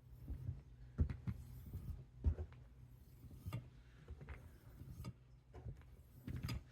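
Faint, scattered clicks and knocks from a rolling knife sharpener as its leather strop disc is rolled along a 12-inch chef knife's edge near the tip, over a low steady hum.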